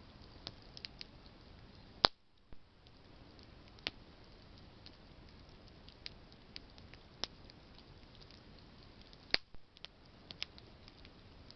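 Campfire of burning branches crackling: scattered sharp pops and ticks over a faint steady hiss, with two loud pops, about two seconds in and about nine seconds in.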